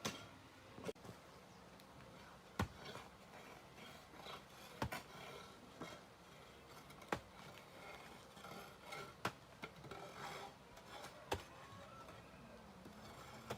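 Scattered sharp knocks and taps, a second or two apart at irregular spacing, with faint rubbing or scraping between them.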